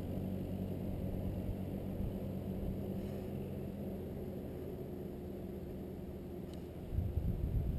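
Dirt bike engine running at low, steady revs as the bike rolls slowly along a gravel road, easing off a little. A gusty rumble of wind buffeting the microphone comes in near the end.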